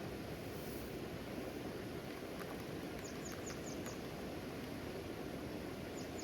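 Steady wash of rain and river water, with a bird giving a quick run of about five short high chirps about three seconds in and a few more right at the end.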